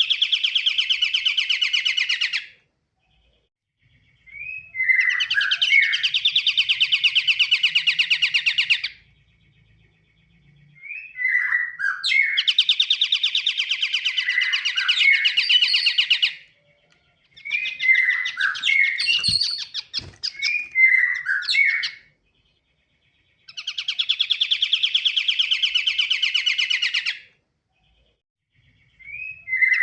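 Pied triller (kapasan kemiri) singing: a run of long, fast, buzzy trills, each lasting several seconds and several opened by a few short sharp notes, repeated with short pauses between them.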